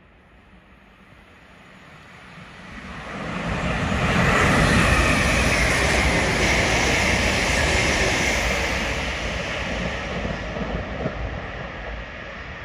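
East Midlands Railway passenger train running through the station at speed without stopping: a rushing rumble that builds over a few seconds, is loudest in the middle as the train passes close by, then fades away.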